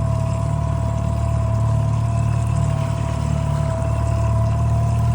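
Fishing boat's engine running steadily at trolling speed: a constant low hum with a steady, higher whine over it.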